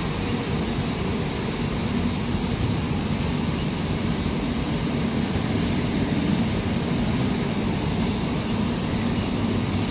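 Moving train's steady running noise: an even rumble with a faint low hum and no breaks or sudden sounds.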